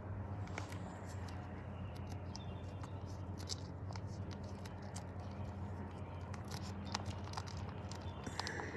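Quiet eating sounds: chewing with small scattered clicks and crackles of food and packaging, over a steady low electrical hum.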